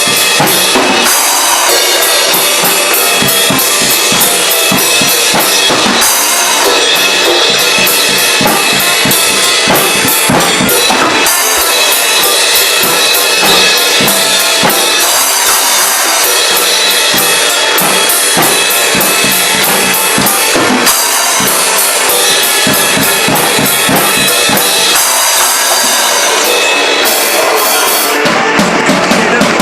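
Drum kit played along to a rock song, with kick drum, snare and cymbal hits in a steady beat. Near the end the drumming stops and the song's guitar and vocals carry on.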